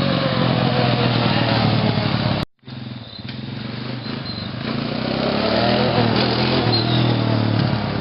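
Small off-road vehicle engine running, its pitch rising and falling about halfway through as it is revved. A brief total dropout about a third of the way in.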